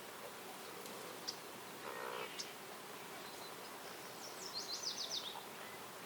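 Forest ambience: an insect buzzing briefly about two seconds in, a few short high bird chirps, and a songbird's quick run of about eight high notes that step down in pitch later on.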